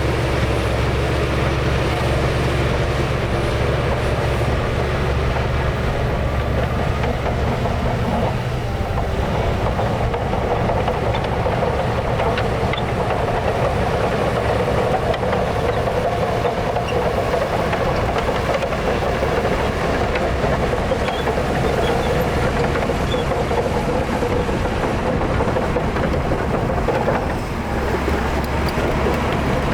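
Heavy diesel earthmoving machinery working under load: a steady low engine note that turns rougher about eight seconds in, over a continuous rushing, grinding noise.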